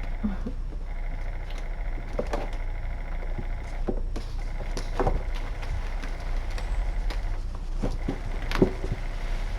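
Kittens scampering and playing in a small room: scattered soft taps and knocks, a sharper knock near the end, over a steady electrical hum with a high whine that cuts in and out.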